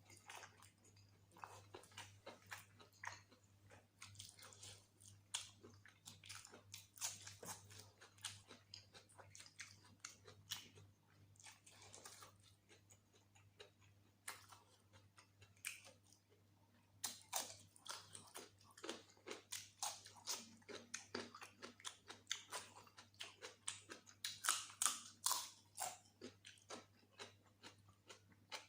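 A person chewing and eating mutton curry with rice close to the microphone: irregular short mouth clicks and chews, over a faint steady low hum.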